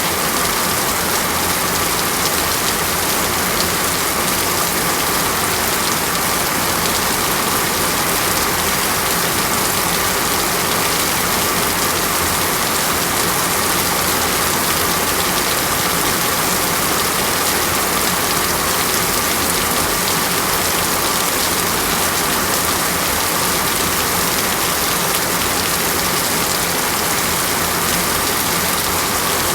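Steady heavy rain falling on foliage, a dense even hiss that holds constant throughout.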